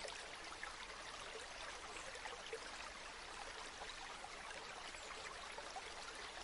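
Flowing water stream, a steady soft trickle and babble.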